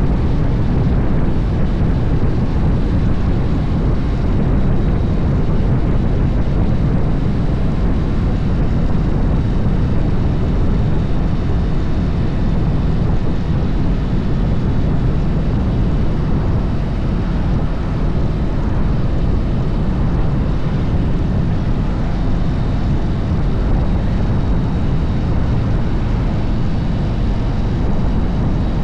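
Harley-Davidson motorcycle running at speed, its engine mixed into a steady rush of wind over the microphone.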